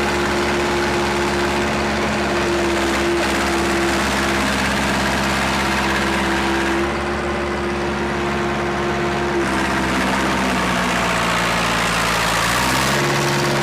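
Engine of heavy road-construction machinery running steadily. Its pitch drops about ten seconds in and climbs back near the end.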